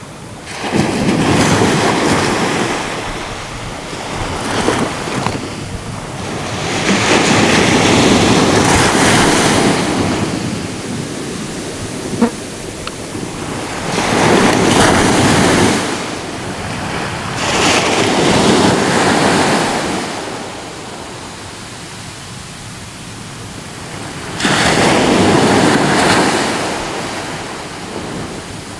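Ocean waves breaking and washing on a shore, rising and falling in about five surges. There is one sharp click midway.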